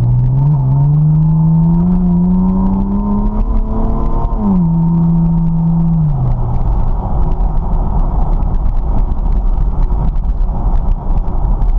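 2010 Chevrolet Camaro V6 exhaust heard inside the cabin with the windows down. The engine note rises as the car accelerates, drops sharply about four seconds in as the automatic upshifts, holds for a moment, then falls away. After that mostly steady wind and road noise remains.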